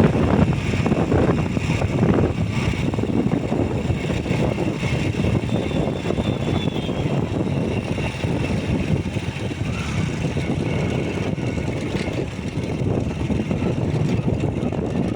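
Motorcycle running steadily while being ridden, its engine mixed with wind rushing over the microphone.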